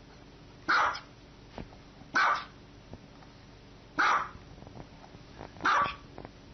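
Small dog barking four times, short sharp barks spaced about a second and a half to two seconds apart.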